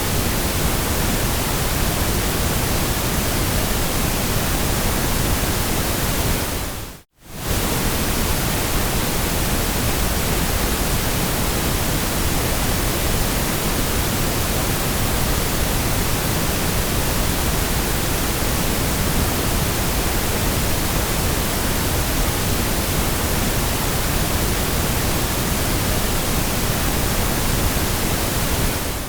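Steady white noise: an even, unchanging hiss across the whole range. About seven seconds in it fades out to silence for a split second, then comes straight back.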